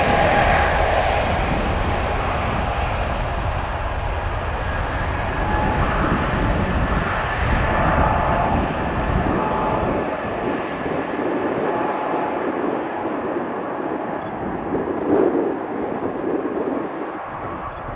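Aircraft engines running: a steady roar with a whine through it. The deep rumble fades away about ten seconds in, and irregular low buffeting suggests gusty wind on the microphone.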